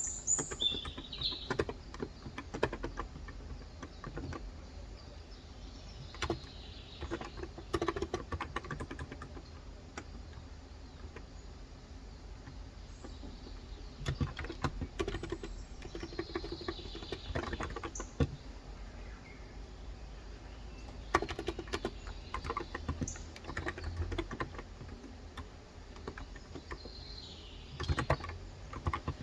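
Typing on a Cox Endeavor electro-capacitive (Topre-style) tenkeyless keyboard with 35 g switches: quick runs of soft keystrokes in bursts, with pauses of a second or two between them. A bird chirps a few times right at the start.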